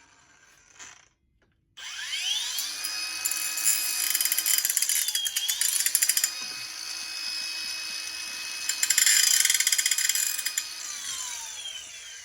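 Small high-speed rotary tool with a grinding wheel spinning up to a steady high whine, then grinding metal in two spells of harsh rasping. The pitch dips once under load, and the tool winds down near the end.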